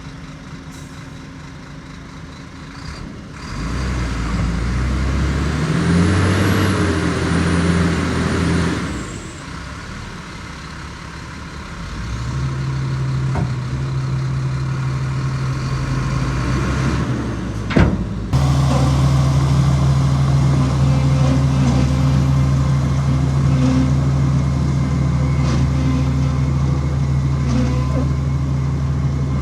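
Heavy diesel engine of earthmoving machinery working under load. It picks up about four seconds in with a high whine, eases off, then builds again. Near the middle there is a sharp snap, after which it runs loud and steady.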